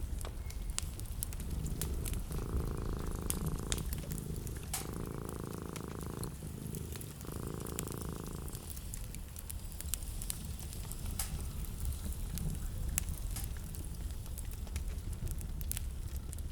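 Wood fire crackling in a fireplace, sharp pops and snaps over a steady low rumble. About two seconds in, a purr-like hum joins it in three stretches of about a second and a half each, ending near nine seconds.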